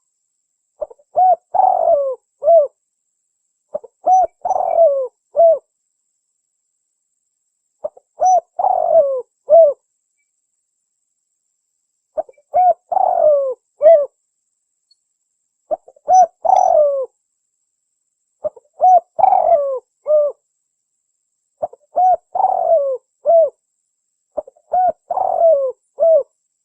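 Spotted dove (tekukur) cooing its lure song: about eight short phrases of several descending coo notes, one every three to four seconds, with dead silence between them.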